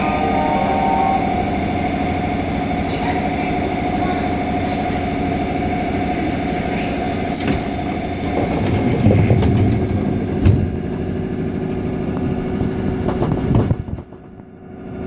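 JR 205 series electric multiple unit heard from inside the car while running between stations: steady wheel-on-rail noise with a motor hum. It grows louder for a moment about two-thirds of the way through, and dips suddenly just before the end.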